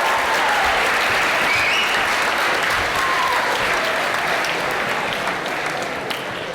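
Audience applauding, with a few short cheers near the start, the clapping slowly dying away toward the end.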